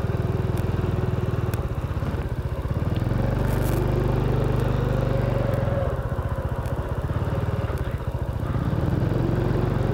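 Honda Cross Cub's single-cylinder four-stroke engine running on the move, picking up revs about three seconds in, easing off around six seconds, and picking up again near the end.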